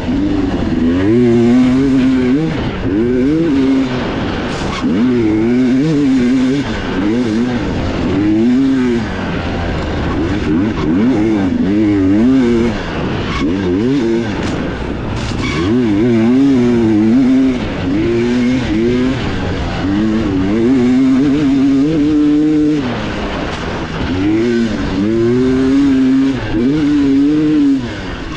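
Dirt bike engine heard from on board, revving up and down in quick swells as the throttle is opened and closed, with short drops in revs now and then.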